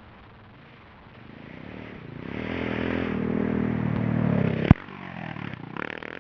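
Suzuki DR650's single-cylinder four-stroke engine on the throttle, growing louder over a few seconds, then a single sharp knock about three-quarters of the way through, after which the engine drops back quieter and picks up briefly again near the end.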